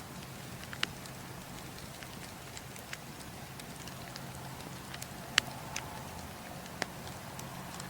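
Wood fire crackling: a steady hiss of burning with scattered sharp pops, the loudest about five seconds in.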